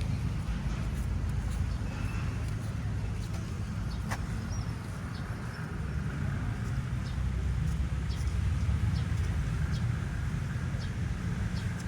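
Outdoor beachside ambience: a steady low rumble with scattered faint, short high ticks.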